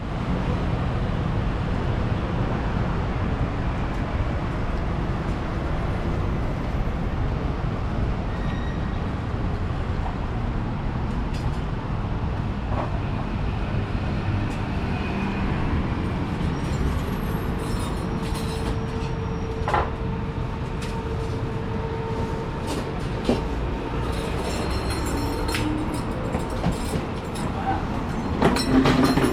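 Steady low rumble of city vehicle traffic, with scattered faint clicks and a brief louder bump near the end.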